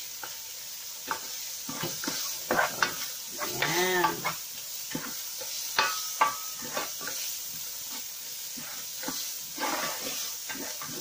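Diced ham and sausage frying in oil with a steady sizzle, while a utensil stirs them, knocking and scraping against the pan.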